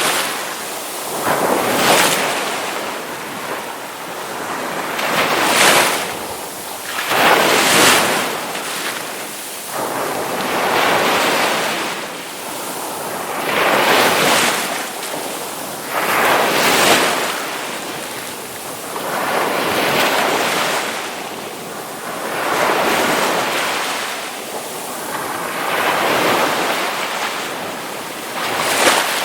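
Ocean waves breaking in surf, the rush of water swelling and fading in a new surge every two to three seconds.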